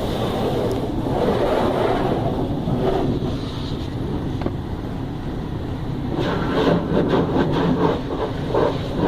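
Automatic car wash running: a steady rush of water spray and wash machinery against the vehicle. The noise turns more broken and uneven from about six seconds in.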